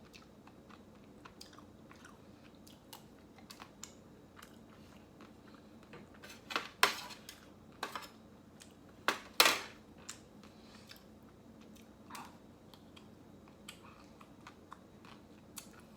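A person biting and chewing a chocolate-coated ice cream bar close to the microphone. Small wet mouth clicks go on throughout, with two louder crunchy bites, about 7 and 9.5 seconds in, as the chocolate coating cracks.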